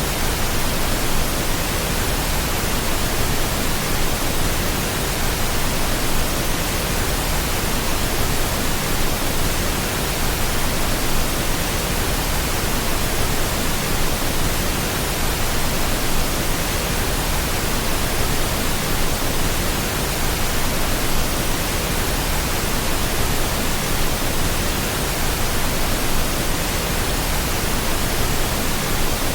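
Steady pink noise: an even, continuous hiss spread across all pitches, unchanging throughout, played as a sleep aid for babies.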